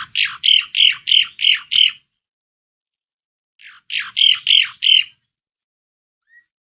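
Asian pied starling calling in two bursts of harsh, rapidly repeated notes, about three to four a second, with a pause of a second and a half between the bursts.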